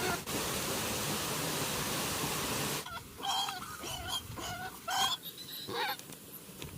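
A steady rushing noise that cuts off suddenly about three seconds in, followed by a quick run of short, chirping animal calls.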